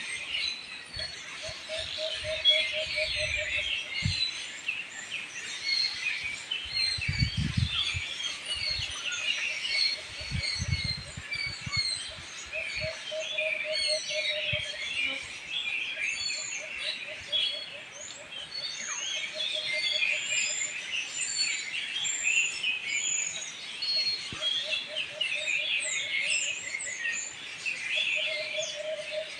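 A chorus of many birds chirping and calling over one another, dense and unbroken. A lower pulsed trill comes in again and again for a couple of seconds at a time, and a few low rumbles come in the first third.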